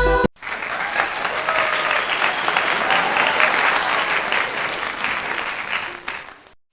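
Crowd applause, many hands clapping. It starts abruptly as the music cuts off, fades out near the end, and starts again just afterwards.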